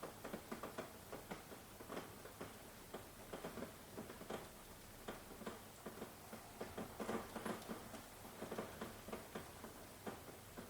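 Rain falling: single drops strike close by at an irregular pace of several a second over a faint steady hiss. No thunder is heard.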